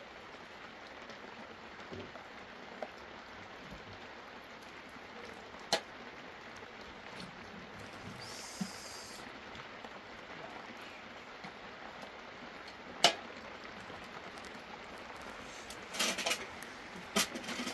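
Steady rain falling, an even hiss, with a few sharp knocks; the loudest comes about thirteen seconds in, and several more come close together near the end.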